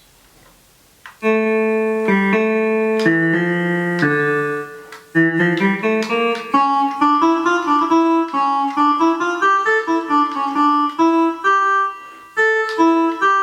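Travel Sax 2 electronic wind instrument playing its 'Clavi' (clavinet-style) keyboard voice: a melody of bright, twangy notes. A few long held notes come in about a second in, then a quicker run of notes follows about five seconds in.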